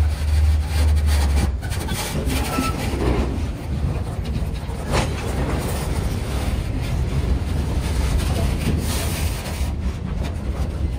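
Freight train of boxcars rolling past close by: a steady rumble and rattle of the cars with repeated clicks of the wheels over the rail joints. A heavy low rumble eases about a second and a half in.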